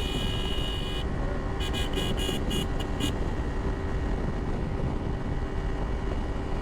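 Steady rumble of wind and engine from a motorcycle ridden at highway speed. A high-pitched horn is held for about the first second, then sounds again as a rapid string of short honks about two to three seconds in.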